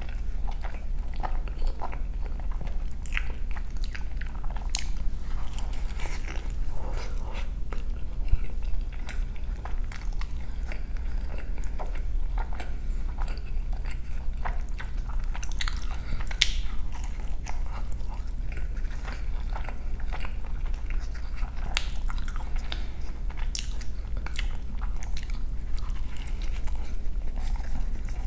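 Close-miked chewing and biting of a breakfast burrito: soft, wet mouth sounds with many irregular sharp clicks, over a steady low hum.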